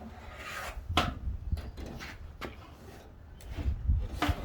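Handling noise from a car seat's leather cover and its plastic snap clips being worked by hand: a few sharp knocks, the strongest about a second in and near the end, over low rubbing and rumbling.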